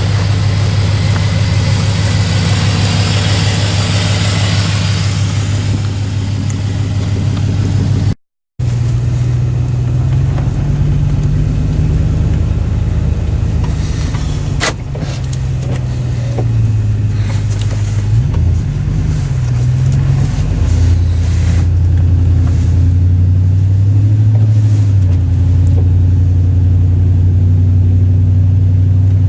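Straight-piped Chevrolet Silverado's engine running loud, its note rising and falling with the throttle through several revs. A hiss rides over it for the first several seconds, and the sound drops out completely for a moment about eight seconds in.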